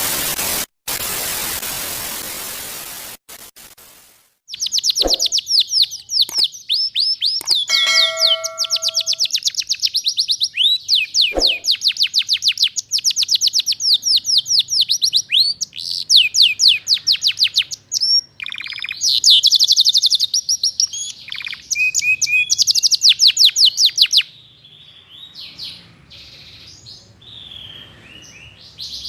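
A hiss of noise for the first few seconds, fading away. Then a domestic canary sings almost without pause in fast, high trills and rattling phrases, in a constant 'gacor' song packed with learned phrases. The song is quieter and sparser for a few seconds near the end.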